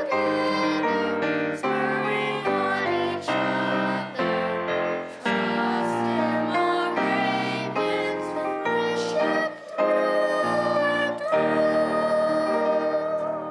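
Piano playing a sequence of chords under a sung melody, dying away at the very end.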